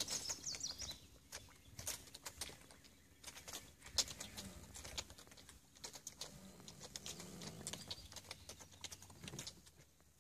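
Birds chirping briefly at the start, over a patter of irregular small clicks, with one sharper click about four seconds in.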